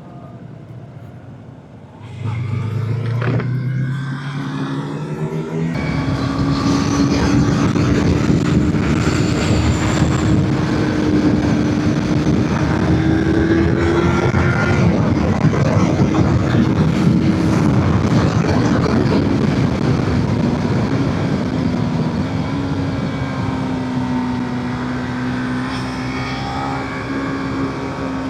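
A motorcycle engine pulls away about two seconds in, rising in pitch as it gains speed, then runs steadily at riding speed with heavy wind rush over the microphone.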